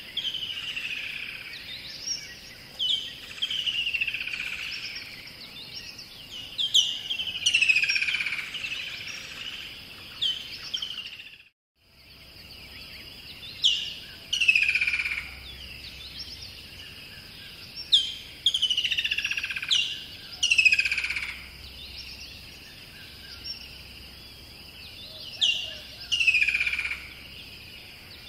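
Birds calling: repeated loud chirps that sweep sharply downward in pitch, some coming in quick runs, over a steady high-pitched drone. The sound cuts out completely for about half a second around eleven seconds in.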